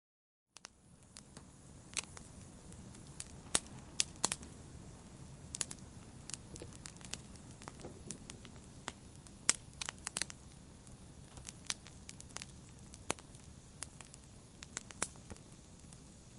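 Fireplace fire crackling: sharp, irregular pops and snaps over a steady low hiss. The sound starts abruptly about half a second in, after a moment of silence.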